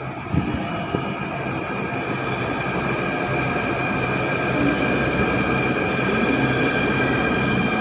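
Delhi Metro train running, a steady rumble with a high, level whine on top, slowly growing louder; a couple of short knocks come in the first second.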